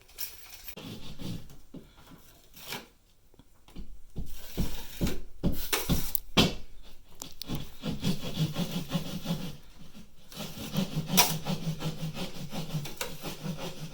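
Hand saw cutting with repeated back-and-forth rasping strokes, which come thick and steady from about four seconds in.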